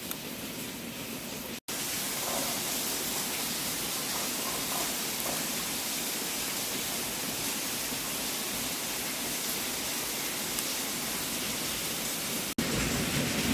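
Wood fire burning in a fireplace, a steady hiss of flames. It drops out for an instant twice, about a second and a half in and near the end.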